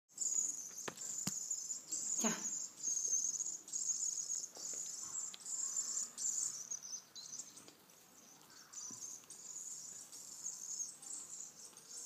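Small hand-held bird giving high, raspy calls about twice a second, typical of a young bird begging for food; the calls fade after about seven seconds, then go on more faintly.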